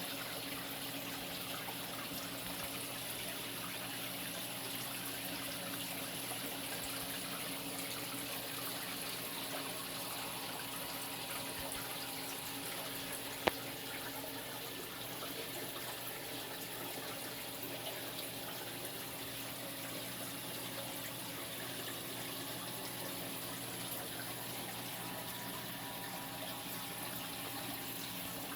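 Saltwater aquarium water circulating with a steady running and trickling sound over a low pump hum. A single sharp click about halfway through.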